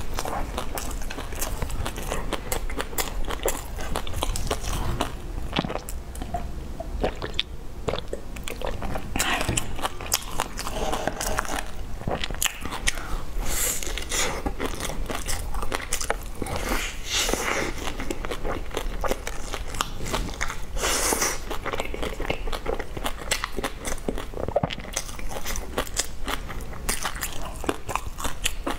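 Close-miked eating: biting into and chewing a cheese-filled bun coated in pork floss and seaweed, with dense crunchy crackles and wet mouth sounds, and louder bites every few seconds.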